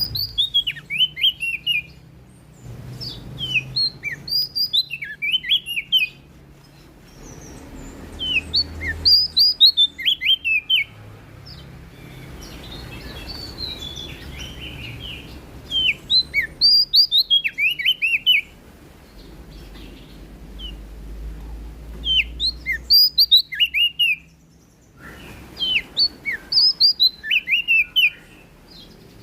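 Prenjak daun (cikrak daun) leaf warbler singing. It gives repeated phrases of quick, high, downward-sliding chirps, each phrase lasting about two seconds, with short pauses between them.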